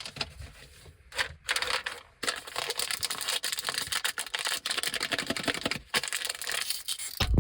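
Plastic candy packaging crinkling and crackling in rapid clicks as it is handled and opened, with a dull thump at the very end.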